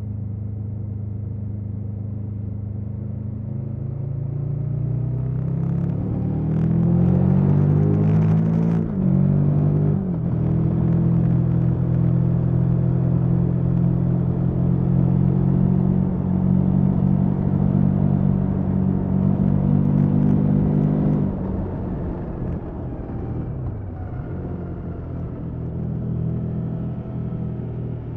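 KTM 1290 Super Adventure S V-twin engine through its stock exhaust. It runs steadily, then climbs in pitch from about four seconds in and drops sharply near ten seconds, as at a gear change. It then holds steady and loud until about twenty-one seconds in, when the pitch falls away and it quietens.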